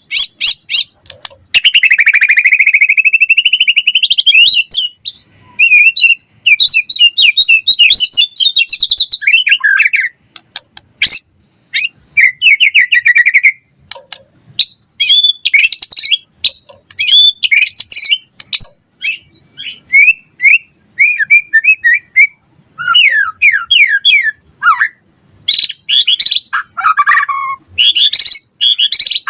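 White-rumped shama (murai batu) singing loudly and at length: a long gliding phrase near the start, then a fast, varied run of whistled phrases, trills and rapidly repeated notes with only brief pauses.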